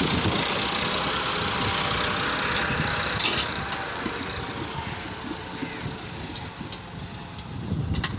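Tractor engine running steadily with a dense, knocking low rumble. The sound is louder for the first few seconds, then eases off a little about three and a half seconds in.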